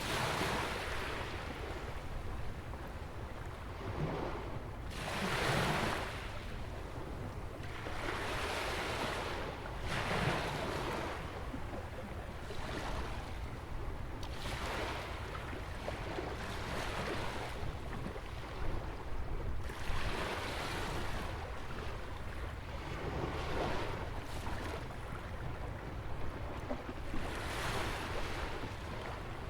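Small ocean waves breaking and washing in around a jetty on a sandy beach, a hissing surge every two to four seconds over a steady low rumble of wind on the microphone.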